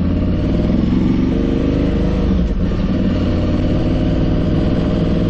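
Aprilia Tuareg 660's parallel-twin engine pulling in first gear, fitted with 16-tooth front and 41-tooth rear sprockets. The revs rise for about two seconds, the engine note dips briefly, and then it runs steadier.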